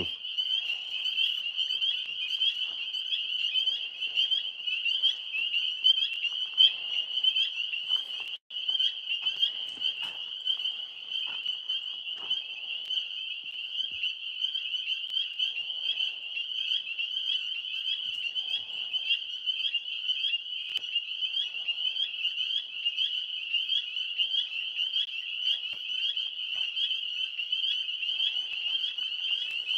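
Loud chorus of tree frogs calling overhead: a dense, unbroken, high-pitched pulsing trill, cut out only for a moment about eight and a half seconds in.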